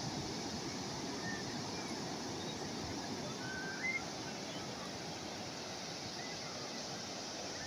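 Calm sea waves washing in a steady hiss, with a few faint, short, high chirps around the middle.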